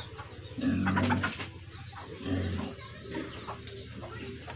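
Birds calling in the background: two short low calls, about half a second in and again near two and a half seconds.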